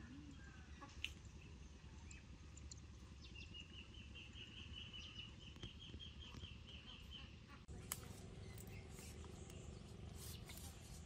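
Quiet outdoor background in which a bird calls a quick series of about a dozen high chirps, roughly three or four a second, in the middle of the stretch. The background changes abruptly near the end, followed by a few faint clicks.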